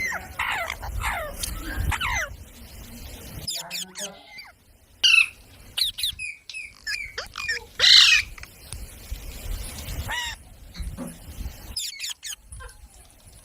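A parrot giving a run of short squawks and downward-sliding calls, with one loud, harsh screech about eight seconds in.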